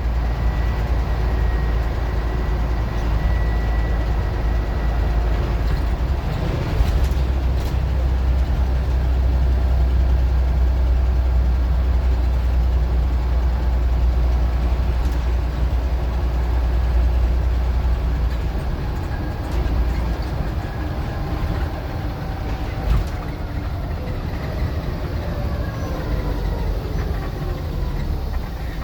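Scania N94UD OmniDecka double-decker bus's diesel engine pulling under way with a heavy low rumble, loudest through the middle and easing off after about two thirds of the way.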